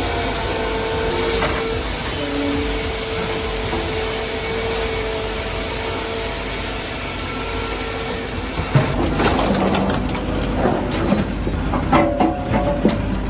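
Pezzolato TM1200 log saw and TB900 splitter line running with a steady mechanical noise and a faint hum; from about nine seconds in, irregular knocks and clatter of wood.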